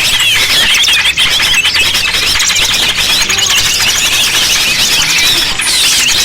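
Dense chorus of many small birds chirping and twittering at once: a continuous, overlapping chatter of high, quick calls played as a lure to draw small birds in.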